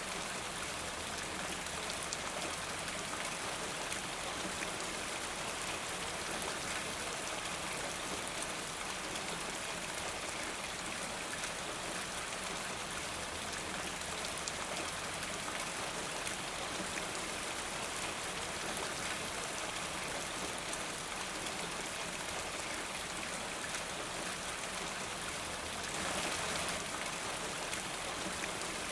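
Steady rain falling, an even, dense patter with no break, swelling briefly a little louder near the end.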